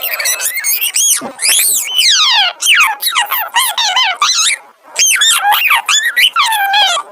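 High-pitched squawking, squeaky voice chattering in quick rising and falling swoops, in several bursts with short breaks.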